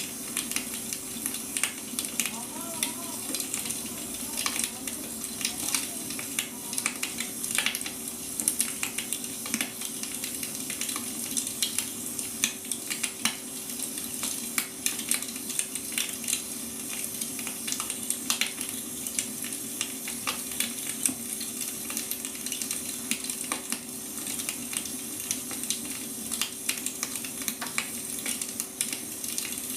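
Wood fire crackling: a dense, irregular run of small pops and snaps over a steady hiss, with a low steady hum underneath.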